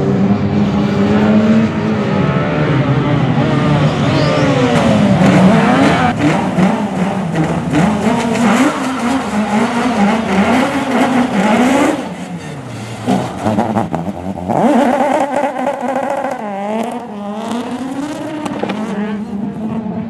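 Rally car engine revving hard, its note rising and falling with gear changes and lift-offs. It fades somewhat about twelve seconds in, then revs up again a couple of seconds later.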